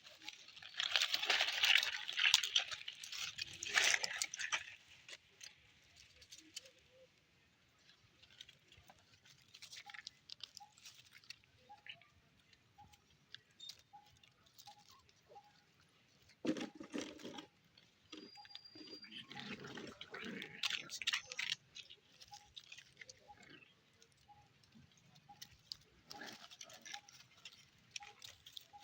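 Puppies moving about, in four irregular bursts of rustling noise.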